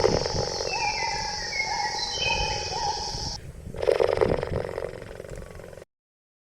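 A large animal's rough, low roaring call, twice, about four seconds apart. Under it are a steady high insect-like buzz and repeated short rising chirps, and the sound cuts off suddenly near the end.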